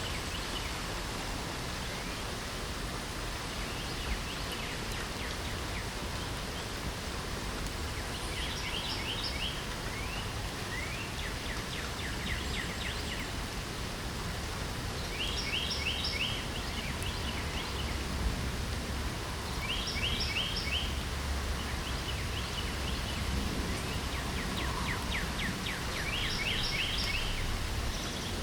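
Steady light rain with a songbird singing short trilled phrases, repeated every few seconds.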